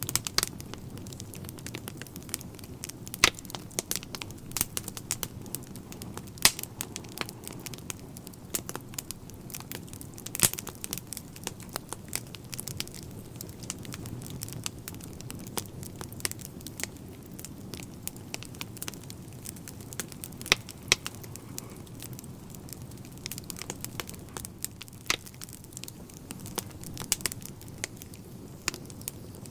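Wood fire in a fireplace crackling: irregular sharp pops and snaps, some much louder than others, over a low steady rumble.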